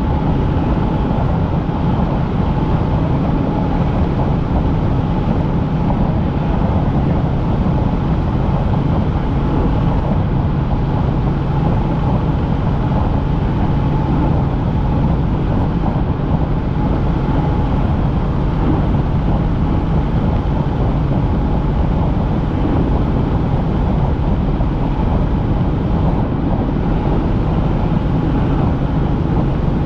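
Helicopter in flight heard from inside the cabin: steady engine and rotor noise with a low, even hum that doesn't change.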